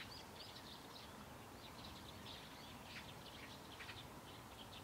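Faint birdsong: several small birds chirping in quick, scattered short notes over a soft outdoor hiss.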